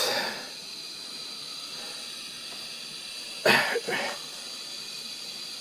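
Steady hiss from the lit burner and heating boiler of a 1930s Bing twin-cylinder toy steam engine, before the engine starts running, with a sharp click right at the start.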